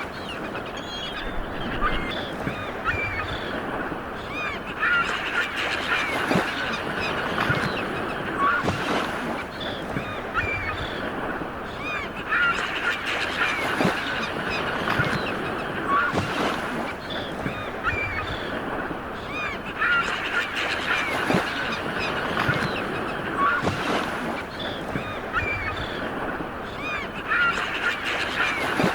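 Sea waves washing ashore, a steady rush with a brief splash about every two and a half seconds, under a flock of birds calling over and over with short honking calls.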